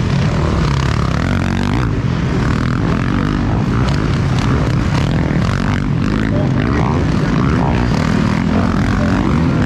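Motocross motorcycle engines running and revving, with pitch rising and falling, over a heavy, steady low rumble.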